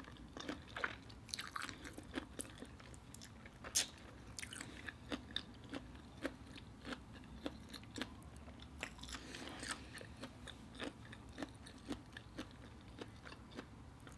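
Close-up chewing of butter garlic shrimp: faint, irregular wet smacks and small crunching clicks, with one sharper click about four seconds in.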